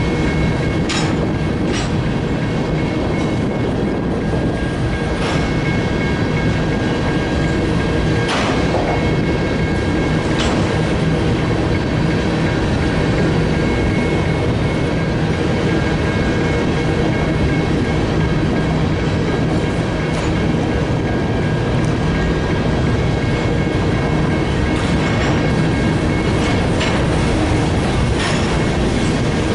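Freight cars of a grain train rolling past: a steady rumble of steel wheels on rail with scattered sharp clicks over rail joints and a faint, steady wheel squeal.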